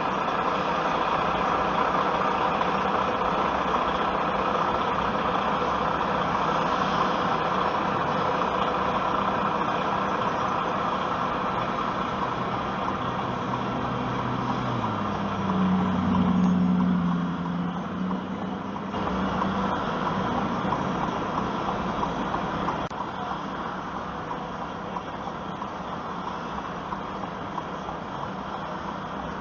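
Steady engine and road noise inside a car crawling in traffic. About halfway through, a louder, low engine note rises and holds for a few seconds, then falls back.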